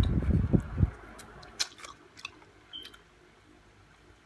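Close-miked chewing, loudest in the first second, then a few faint mouth clicks.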